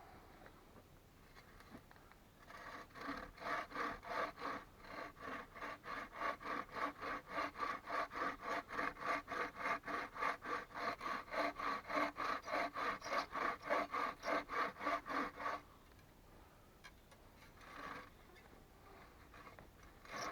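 Hand saw cutting through wood with quick, even strokes, about three a second. It runs for about thirteen seconds and then stops, followed by a couple of short faint scrapes.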